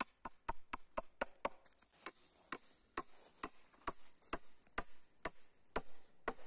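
Hammer driving nails into wooden poles: a run of quick, even strikes, about four a second, that slows to about two a second after a second and a half.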